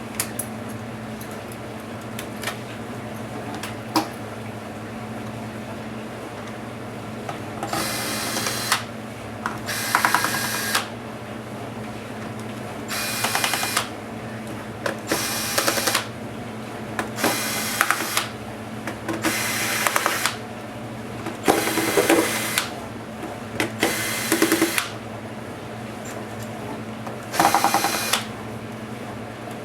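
Electric screwdriver running in short bursts of about a second, nine or so times in a row, backing screws out of a laptop case. A couple of sharp clicks come before the first burst.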